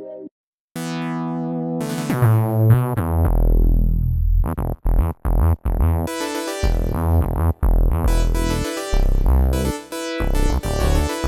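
Korg Radias synthesizer playing a new patch after a brief silence: a held tone fades in, then about two seconds in a deep bass and short keyboard notes join in a rhythmic, stop-start pattern.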